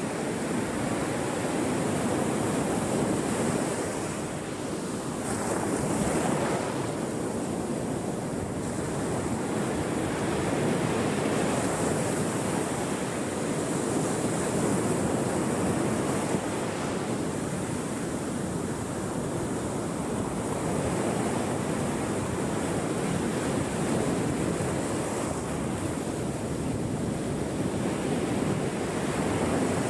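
Ocean surf: waves breaking and washing in as a continuous rushing that slowly swells and eases.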